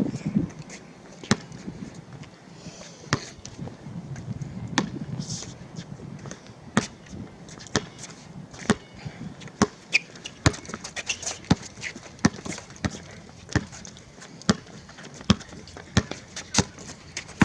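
Basketball being dribbled on a hard outdoor court, one bounce about every second at first and quicker bounces in the second half, with faint voices in the background.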